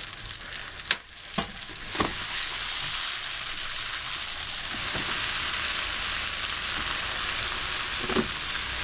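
Diced tomatoes frying in hot oil in a frying pan, sizzling steadily; the sizzle rises about two seconds in and then holds. A few sharp knocks of a spoon against the saucepan come in the first two seconds, and one more comes near the end.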